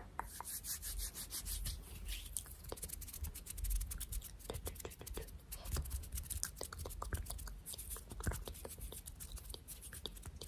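Hands rubbing against each other close to the microphone in quick, irregular strokes, giving a dry, crisp swishing texture.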